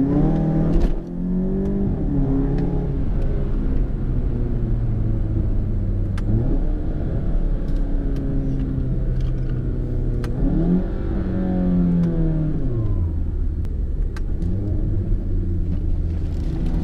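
VW MK7 GTI's turbocharged four-cylinder, on a Cobb Stage 3 tune with a catless downpipe, pulling hard through the gears. The engine note climbs in pitch and drops back several times as the DSG gearbox shifts.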